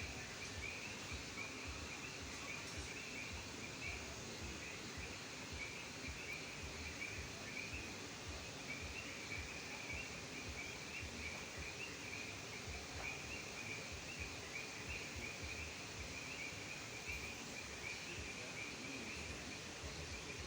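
Chorus of frogs calling continuously, a dense high-pitched trilling that never stops, over a low background rumble.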